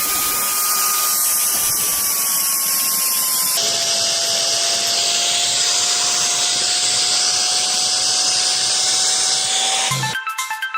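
Electric power tool working metal: a steady loud hiss with a motor whine that sags slightly under load. About three and a half seconds in, the sound changes abruptly to a lower whine.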